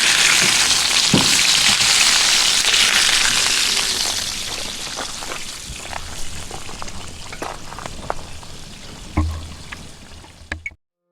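Food frying in sausage and bacon grease in a pan: a steady sizzle with scattered pops and crackles. It grows quieter from about four seconds in and cuts off shortly before the end.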